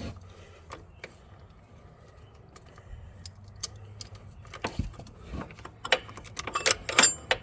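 Metal hand tools clicking and clinking as a socket extension, universal joint and oil-filter wrench are fitted onto an ATV's oil filter. Scattered taps and knocks, sparse at first and busier near the end.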